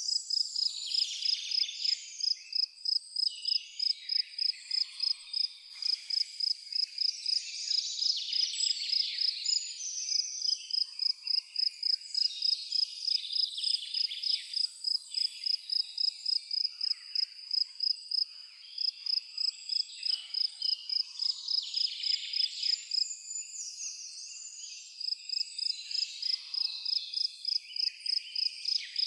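A cricket chirping in an even rhythm of about two to three high chirps a second, with birds twittering and calling over it. The cricket falls quiet briefly twice.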